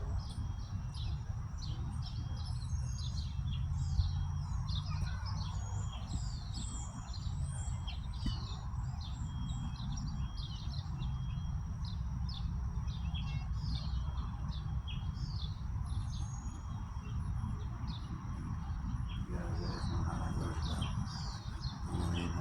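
Several birds chirping and calling in quick, overlapping short notes, over a low rumble of wind on the microphone.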